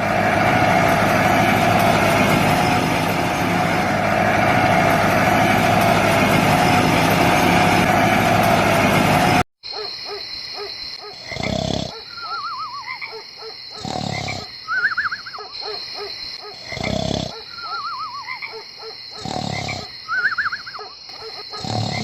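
A small handmade machine's motor running steadily and loudly, which cuts off suddenly about nine seconds in. It is followed by a repeating pattern of roar-like thumps every few seconds with warbling whistles over a steady high tone.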